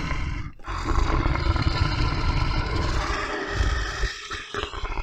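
Lion roaring, a recorded sound effect: long, rough roars with short breaks about half a second in and again around four seconds.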